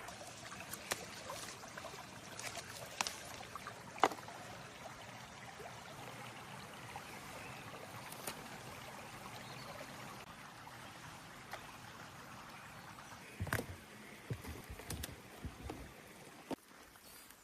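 Steady outdoor water noise, like a running stream, with a few sharp snaps of wild garlic stems being picked in the first few seconds and a cluster of soft thumps and rustles from handling near the end.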